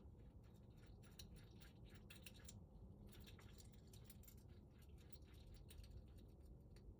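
Near silence with faint, scattered small clicks and ticks from metal lock parts being handled and fitted together during reassembly of a lock cylinder.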